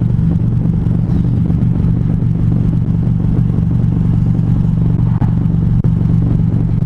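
Harley-Davidson Road Glide's V-twin engine running at a steady highway cruise on cruise control, with road noise.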